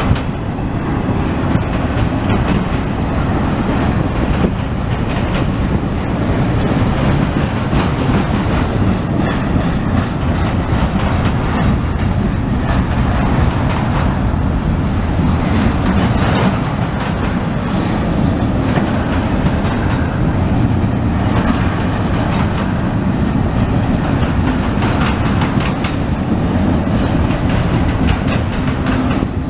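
A CSX intermodal freight train of container and trailer cars passing close by: a steady, loud rumble of steel wheels on the rails with rapid clickety-clack.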